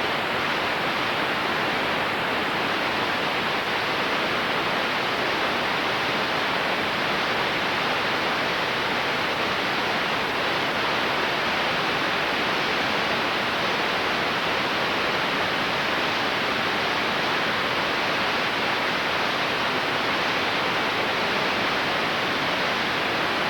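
Steady, even static hiss that starts suddenly when the speech cuts off, typical of blank videotape after a home-video recording ends.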